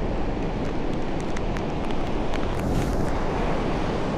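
Wind buffeting the microphone, a steady low rumble, over the constant wash of ocean surf, with a brief hiss a little before three seconds in.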